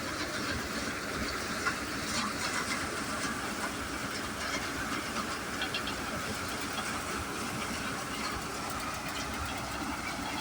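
HMT 5911 tractor driving a paddy threshing machine, running steadily: a continuous machine hum with a hiss and scattered rattling ticks.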